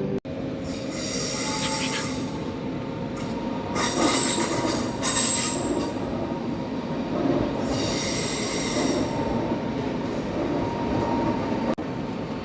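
Train wheels squealing on the rails, over a steady rumble of the moving train, in three high-pitched squeals of a second or two each.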